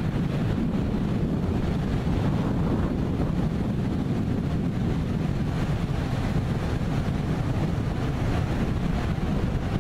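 Distant, steady deep rumble of a SpaceX Falcon 9's nine Merlin first-stage engines climbing after launch, heard from about 15 miles away and mixed with wind buffeting the microphone.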